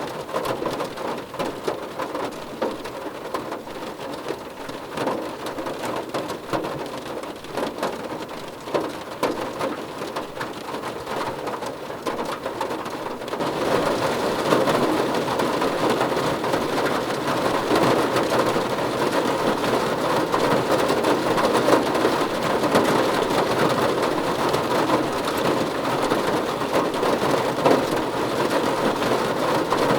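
Rain falling on a car roof, a steady patter of drops that grows heavier and louder about halfway through.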